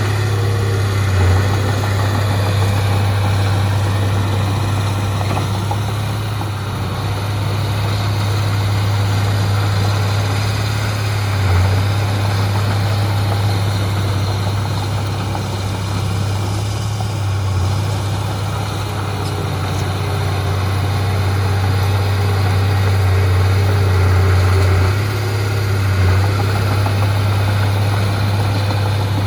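Heavy diesel machinery running steadily with a deep, even drone, swelling slightly a few times.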